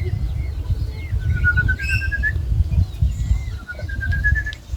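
A bird calls in two quick runs of about ten short notes each, every run climbing slightly in pitch and lasting about a second, with fainter chirps around it, over a steady low rumble.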